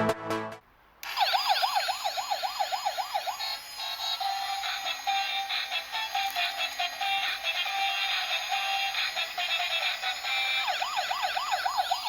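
Loud music stops within the first second. Then a bump-and-go toy police car's electronic siren warbles rapidly up and down, several times a second, and gives way to the toy's tinny electronic tune. The siren warble comes back near the end.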